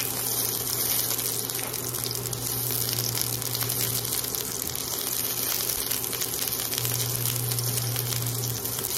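Onions frying in hot oil in a nonstick wok, a steady crackling sizzle. A low cooktop hum runs under it, cuts out for a few seconds in the middle, then comes back.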